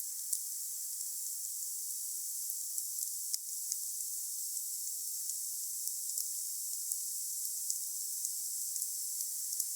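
Wood fire burning: a steady hiss with frequent small crackles, and one sharper pop a little over three seconds in.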